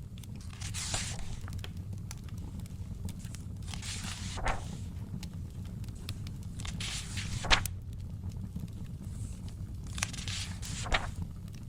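Paper book pages being turned, four soft swishes about every three seconds, over a crackling wood fire with scattered small pops and a low steady rumble.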